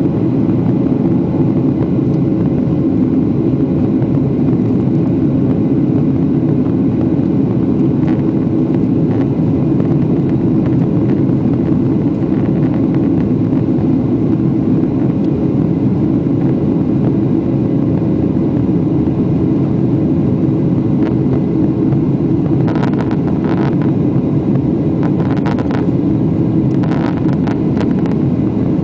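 Steady jet engine and airflow noise inside the cabin of a Boeing 767 during takeoff, with a faint steady tone running through it. A few short clicks or rattles come in the last several seconds.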